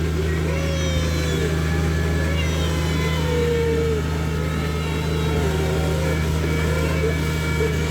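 Steady low motor hum of a train ride running, with a repeated higher wavering tone that rises and falls over it.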